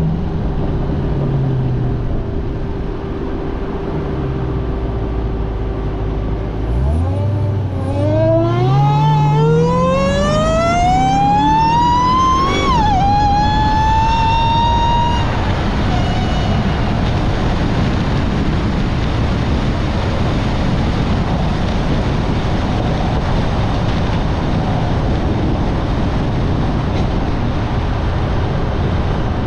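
Car engine accelerating hard, its pitch climbing steadily for about five seconds, then dropping sharply at a gear change and rising again briefly. After that comes a steady rushing road and wind noise.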